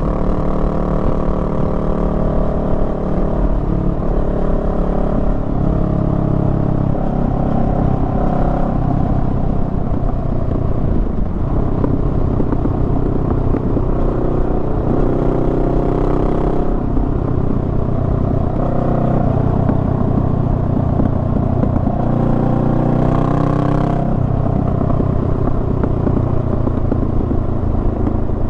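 Honda Rebel 500's parallel-twin engine running while riding, its pitch stepping up and down several times with throttle and gear changes. Brief rushes of hiss come twice, about halfway through and near the end.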